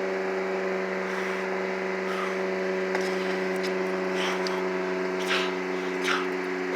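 A steady engine-like hum with several pitched tones, with a few short hissing bursts scattered through it.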